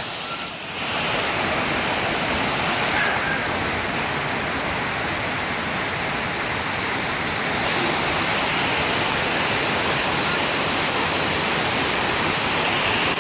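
Heavy typhoon rain pouring down in a steady, even rush.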